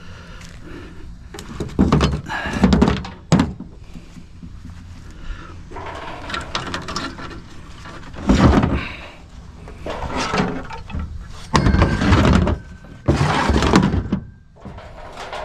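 Metal parts of a satellite dish knocking and clattering as it is taken apart by hand, in several separate bursts of clunks.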